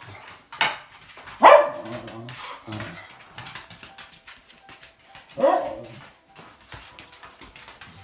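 A pet dog barking impatiently to be fed: three sharp barks, the second soon after the first and the last about four seconds later, with a quieter bark between them.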